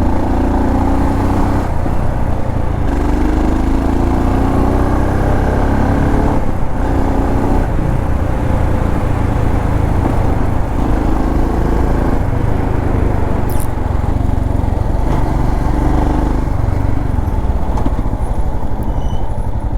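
Royal Enfield Scram 440's single-cylinder engine running while riding, its note rising and falling with the throttle over steady wind and road noise.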